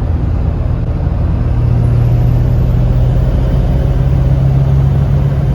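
Ford 7.3 Powerstroke V8 turbo-diesel, fitted with new 180cc injectors, running while the truck drives, a steady low drone that grows a little louder about a second and a half in.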